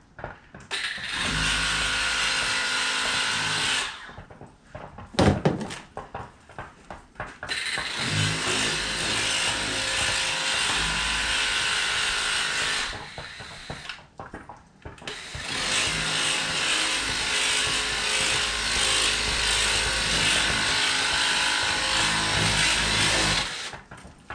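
Battery-powered Kobalt 600 psi pressure washer spraying soapy water in three steady runs of several seconds each: a motor-pump hum under a hiss of spray, stopping in between as the trigger is let go. A brief sharp knock comes about five seconds in.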